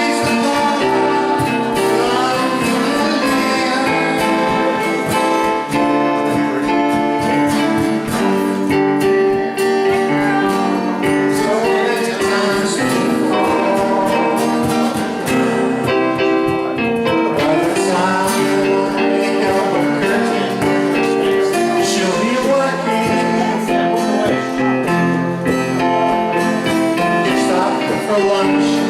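A live band playing a song, with singing over guitar and a steady beat.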